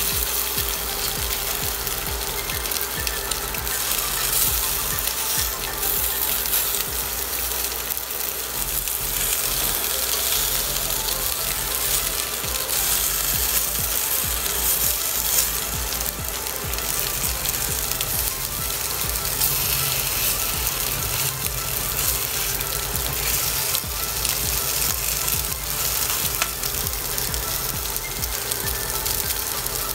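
Cubes of luncheon meat sizzling in hot oil in a cast-iron skillet, a steady frying hiss.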